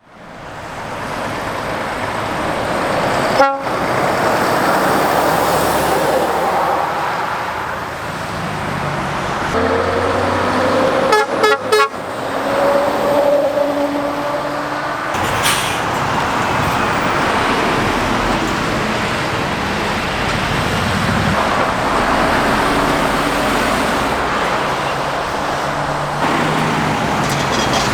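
Lorries and cars passing on a busy main road, with engine and tyre noise throughout. A horn toots several times in quick succession about eleven seconds in, and there is one brief sharp sound a few seconds earlier.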